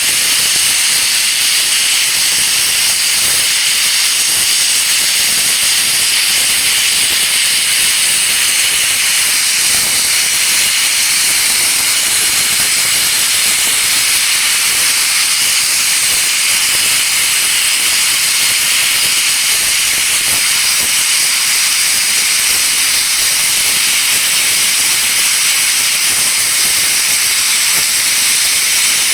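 DB class 01 steam express locomotive 01 066 venting steam: a loud, steady, unbroken hiss.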